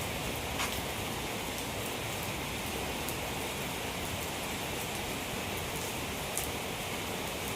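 Steady drizzle falling, a continuous even hiss of rain on surfaces with a few sharper drops ticking.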